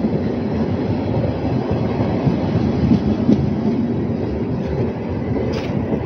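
Former SNCF passenger coaches of a departing train rolling past and away, a steady rumble of wheels on the rails that drops slightly about five seconds in.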